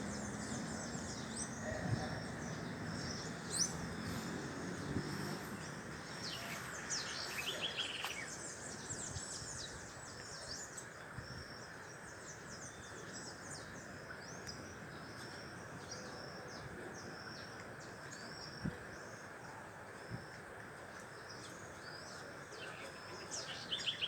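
Birds chirping in many short, high calls over a steady background hiss of outdoor noise, with a louder run of falling calls about seven seconds in and again near the end.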